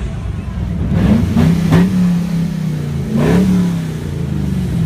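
A car engine revving twice, with quick blips about a second in and again about three seconds in, settling back to a steady idle between and after.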